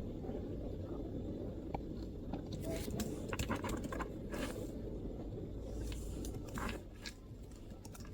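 MacBook laptop keyboard typing: irregular runs of soft key clicks, several a second, from about two and a half seconds in until near the end, over a low murmur of background chatter.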